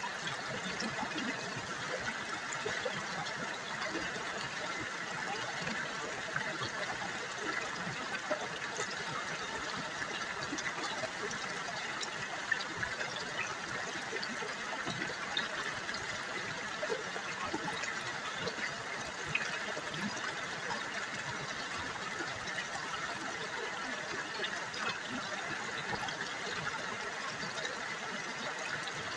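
River water babbling and trickling steadily over stones, a continuous splashing with small bright flicks throughout.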